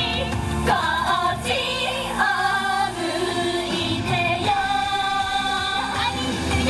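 Japanese idol pop song: female voices singing held, melodic lines over a pop backing track.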